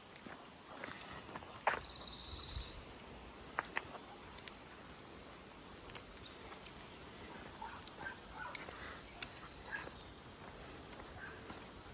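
Small birds singing: bursts of high trills and chirps, busiest in the first half and fainter later, with a few soft knocks in between.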